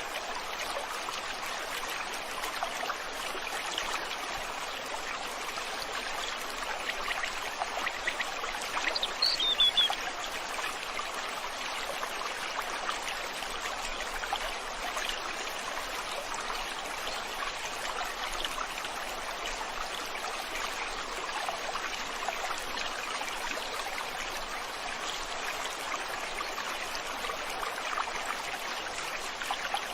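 River water flowing steadily over stones. About nine seconds in, a bird gives a single short, falling high chirp.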